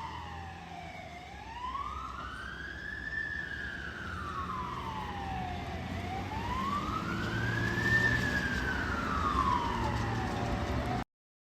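Fire engine siren in a slow wail, rising and falling about every five seconds, over the low rumble of the truck's engine; the sound cuts off suddenly near the end.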